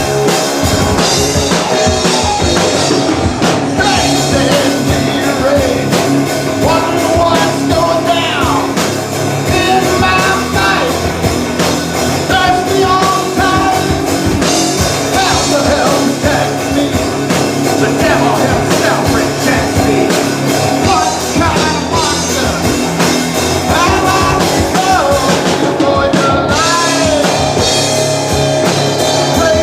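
Live rock band playing, with drum kit and singing.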